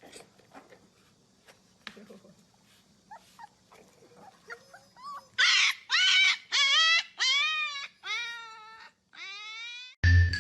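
Puppy whining and yelping: faint rustles and clicks, then a run of about seven high, arching cries that grow loud about halfway in.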